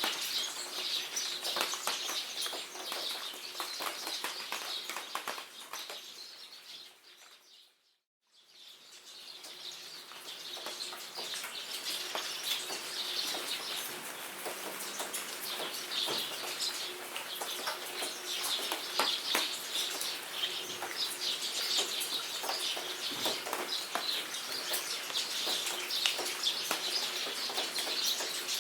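Rain pattering in many fine drops under steady bird chirping. The whole sound fades out to silence about eight seconds in and fades back in over the next two seconds.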